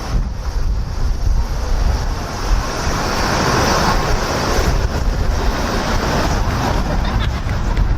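Strong wind buffeting the microphone, with the rushing noise of a Boeing 787 jet airliner on low final approach passing overhead. The jet noise swells about two seconds in, peaks a few seconds later and fades near the end.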